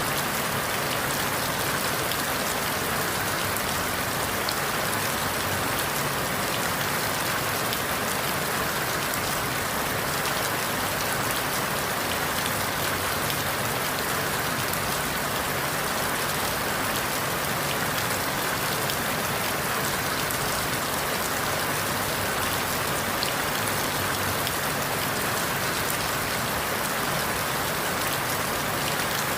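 Steady rain falling through forest leaves, an even hiss with fine scattered drop patter and no sudden sounds.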